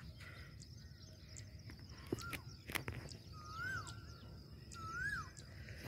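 A bird calling a short whistled note that rises and then drops, repeated three times about every second and a half. It is faint, over a low outdoor rumble, with a few sharp clicks.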